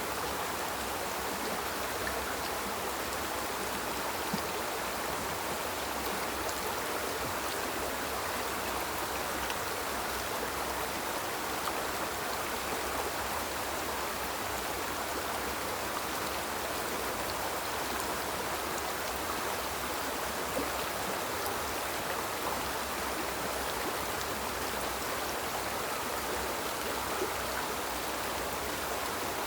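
Small river flowing: a steady, even rush of running water that does not change.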